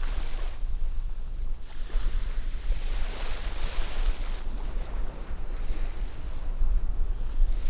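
Surf from distant ocean waves, swelling into a broad wash about two seconds in and easing off again. A steady low rumble of wind on the microphone runs underneath.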